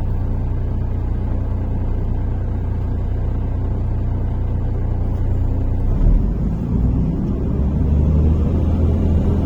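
MAZ-103.485 city bus engine heard from inside the cabin, idling steadily. About six seconds in, the bus pulls away: the engine rumbles harder and a whine rises in pitch as it accelerates.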